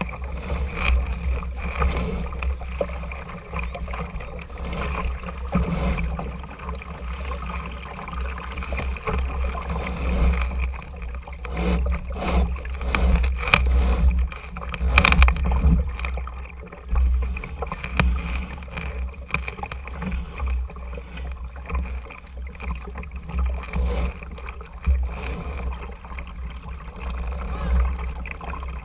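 Water rushing and splashing along the hull of a small RS Tera sailing dinghy under sail, with a steady low rumble of wind on the microphone. Brief splashes or knocks come through now and then, most of them in the middle of the stretch.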